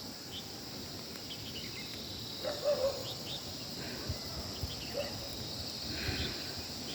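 Steady high-pitched insect chorus with scattered short bird chirps, and a brief wavering call about two and a half seconds in, with a shorter one near five seconds.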